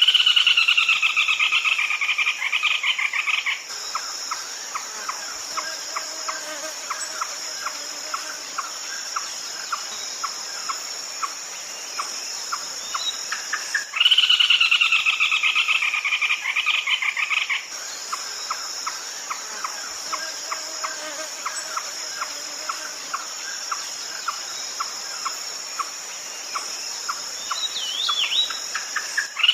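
Red-legged crake call: a rapid, descending pulsed trill about three and a half seconds long, repeated about fourteen seconds later, as in a looped lure recording. Between the calls come short ticks about twice a second, over a constant high insect drone.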